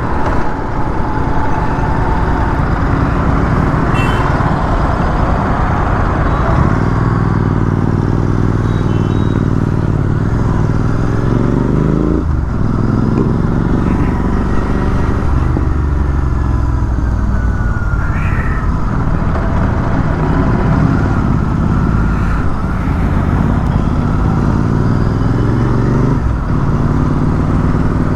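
Motorcycle engine running under load while riding, with wind rushing over the microphone. The engine pitch climbs slowly, drops sharply at a gear change about twelve seconds in, climbs again and drops once more near the end.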